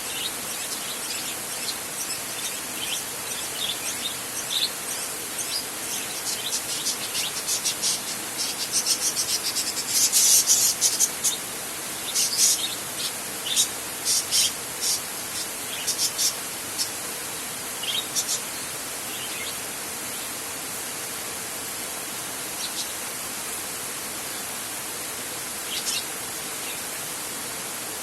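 Steady heavy rain falling on a metal roof, an even hiss throughout. A flurry of short high chirps rises over it in the middle, with a few more near the end.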